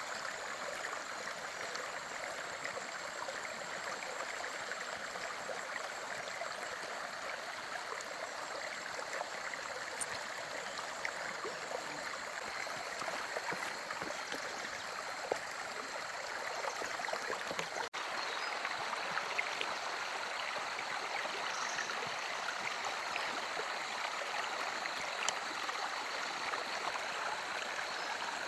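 Steady rush of running stream water, with a brief break about two-thirds of the way through, after which it is a little louder.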